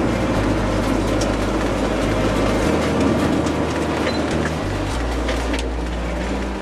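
A car driving along a road: steady road and engine noise, with low sustained tones that shift to a new pitch every couple of seconds.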